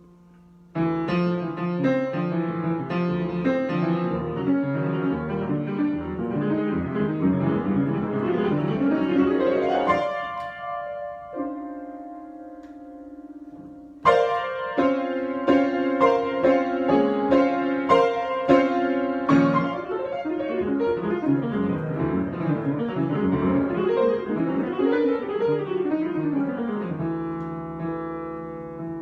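Piano improvisation. Busy notes begin about a second in and climb in a rising run, then a held low chord rings for a few seconds. A loud struck chord near the middle sets off another busy passage, which fades away near the end.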